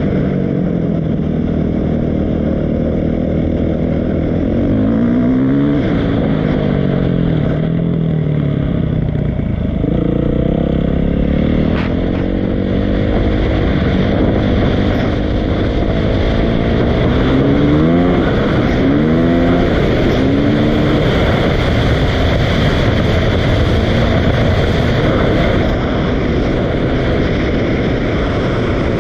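Dirt bike engine running and revving, its pitch rising and falling several times with the throttle, most clearly around 5, 10 and 17 to 21 seconds in.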